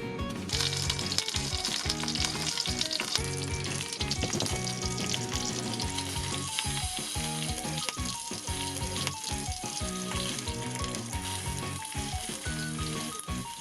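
Food sizzling as it fries in a hot pan, with the sizzle starting about half a second in, under background music with a plucked melody.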